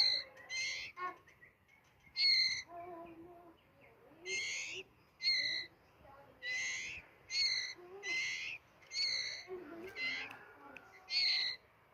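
White-rumped shama (murai batu) singing: a string of loud, clear whistled phrases, about one a second, with softer, lower warbling notes between them.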